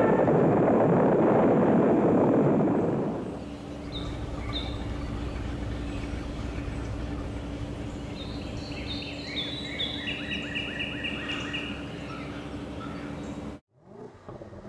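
Outdoor ambience with birds calling: a couple of short chirps about four seconds in, then a bird singing a run of quick repeated notes, about four a second, over a steady faint hum. It opens with a loud rushing noise that fades out after about three seconds, and the sound cuts off suddenly near the end.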